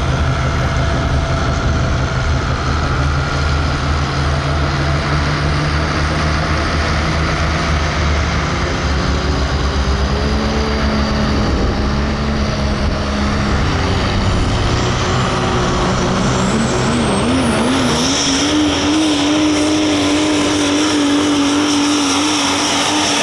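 Super stock diesel pulling truck's engine running hard under load, at first with a deep throbbing note. About two-thirds of the way through it climbs in pitch and then holds steady and high, joined by a thin high turbocharger whine that rises and then holds.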